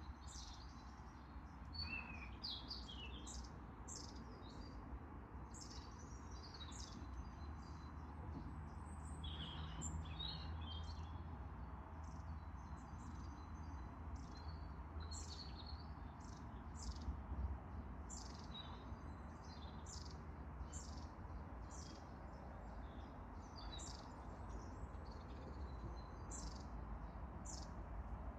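Several wild songbirds singing and chirping, with short high calls and trills coming every second or so, over a low steady background rumble.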